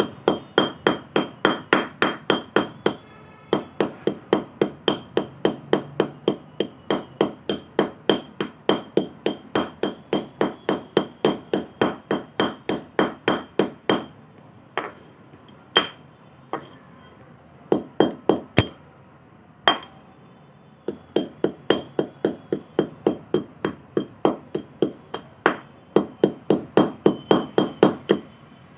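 Fired clay pot being struck over and over, sharp even knocks about four or five a second in long runs, breaking down to a few scattered single strikes in the middle before the quick run resumes.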